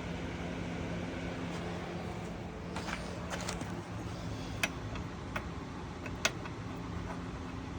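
A new spark plug being handled: several light, sharp clicks and taps about halfway through and near the end, over a steady low hum.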